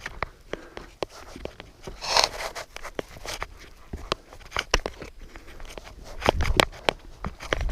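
Scattered knocks, clicks and scrapes with rustling, from hands and feet working up a crude ladder while the camera is held, and a low rumble of handling or wind on the microphone near the end.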